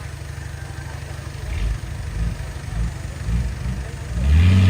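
Heavy diesel engine of earthmoving machinery running with a low, uneven rumble, then revving up loudly about four seconds in.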